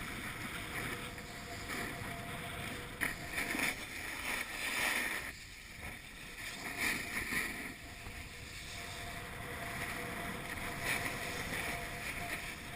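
A snowboard sliding over snow: a rushing scrape that swells in several surges, with wind noise on the microphone.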